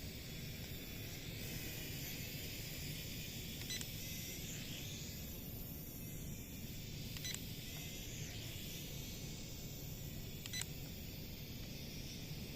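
Small JC801 toy drone's propellers whining faintly, the pitch wavering as it flies, under wind rumble on the microphone. Three short sharp clicks come about three and a half seconds apart.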